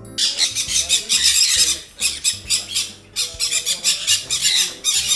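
A flock of caged parrots screeching together in a loud racket: a dense chorus of rapid, shrill calls that dips for a moment about three seconds in, then starts again.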